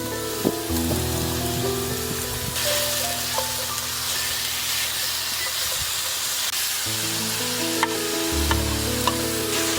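Food sizzling in a hot pan, a steady frying hiss that grows louder about two and a half seconds in, with a few light ticks. Soft background music of held notes plays underneath.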